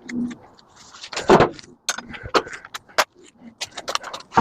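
Irregular metallic clicks, clinks and knocks of tools and metal parts being handled while a scrap microwave oven is stripped, with louder knocks about a second in and again near three seconds.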